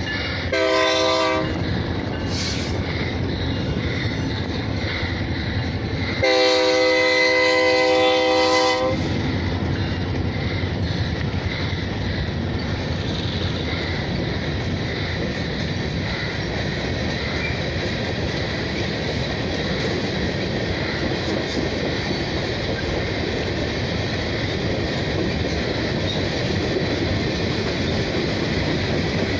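Locomotive air horn on a passing train: a short blast, then a longer one about five seconds later. Under and after the horn, the train rumbles steadily past with the rhythmic clatter of wheels on the rails.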